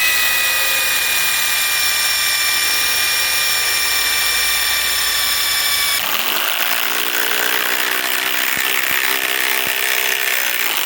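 Ryobi PSBIW25 compact impact wrench driving a lag screw into wood under heavy load, on a battery down to its last bar. A steady high whine sinks slightly in pitch, then about six seconds in the sound turns rougher and lower as the tool starts impacting.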